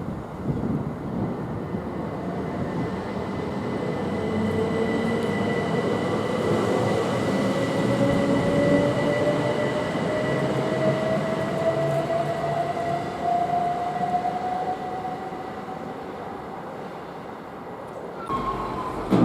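A train passing on the railway: steady rumble of wheels on track that builds to a peak about halfway through and then fades, with a whine that rises slowly in pitch across the middle.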